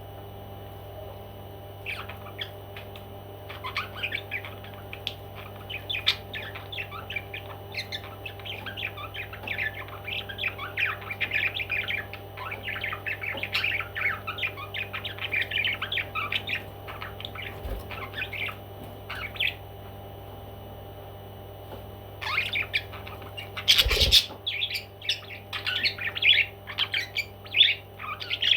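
Pet parrot chirping and squawking in a long run of quick, short calls, pausing briefly, then calling more loudly. One sharp knock stands out during the louder calling, over a steady low hum.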